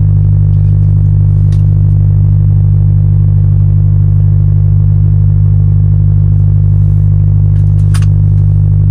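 Steady low hum of an idling truck engine, with a faint light click about a second and a half in and another near the end.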